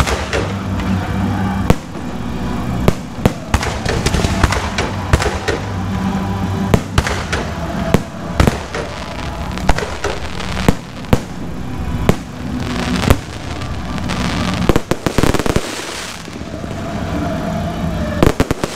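Aerial fireworks shells bursting overhead in a steady string of sharp bangs, one every second or so, with a stretch of crackling hiss about twelve seconds in and again near the end.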